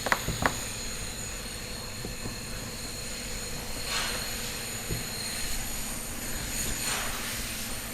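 Steady mechanical hum of shop equipment, with several high steady tones over it. Two sharp clicks about half a second apart come right at the start, and two brief hissing swishes follow, one midway and one near the end.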